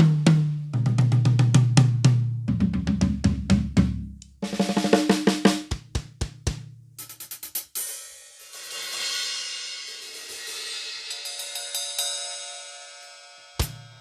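Drum kit being played in a sound test: fast tom fills stepping down in pitch from the high toms to the floor tom, a quick run of snare strokes, then a cymbal crash left ringing and fading for several seconds before the drums come in again near the end.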